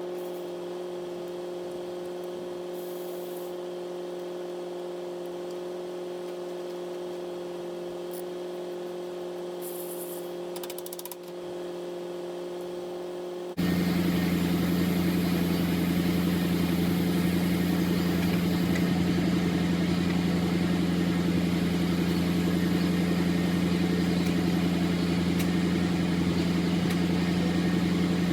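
An engine idling steadily. About halfway through the sound cuts suddenly to a louder, rougher engine idle with a strong low hum.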